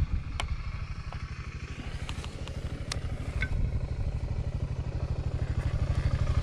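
Motorcycle engine running at low revs with a steady pulsing beat, growing louder toward the end, with a few sharp clicks from the bike rattling along.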